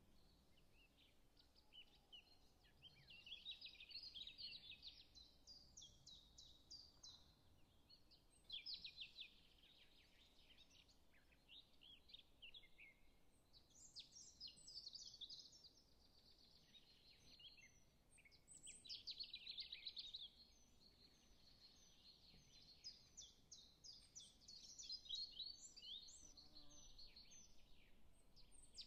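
Faint chirping of small birds, coming in repeated bursts of a few seconds with quiet stretches between.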